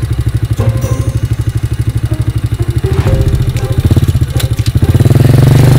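Small motorcycle engine running under way, with a rapid even pulsing. It grows louder and steadier near the end.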